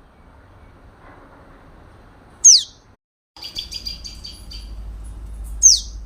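A bird calling: a loud, sharp whistle that sweeps quickly down in pitch, given about two and a half seconds in and again near the end, with a quick run of rapid chirps between the two.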